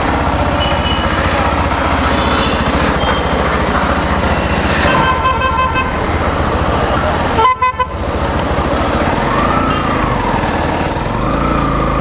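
Yamaha FZ-X's 149 cc single-cylinder engine running steadily under way, with a vehicle horn tooting briefly about five seconds in.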